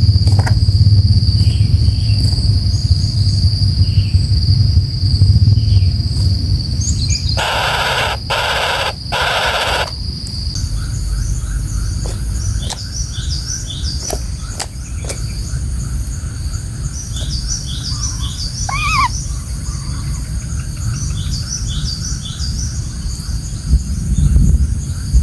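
Outdoor birdsong of many short, high chirps, with a lower repeated note series and an arched call partway through. An insect buzzes steadily at first, and a loud noisy burst of three pulses comes about a third of the way in. A low rumble of wind or handling noise runs underneath.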